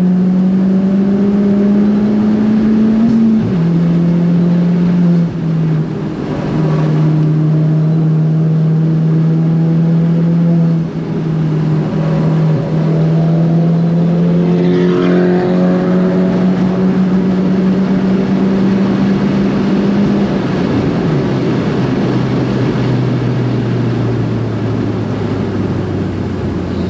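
Big-turbo Ford Fiesta ST engine with a 3-inch non-resonated exhaust, heard from inside the cabin, pulling hard at high revs with the pitch slowly climbing. The sound briefly drops a few times as the throttle comes off. Near the end the revs fall to a lower steady note as the car slows.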